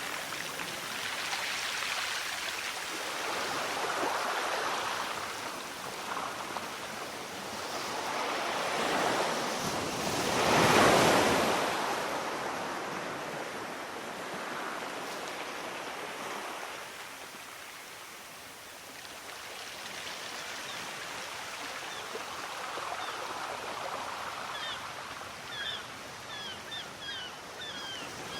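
Sea waves surging and washing in, swelling and ebbing, with one bigger wave breaking about ten seconds in. Near the end there is a run of short high chirps.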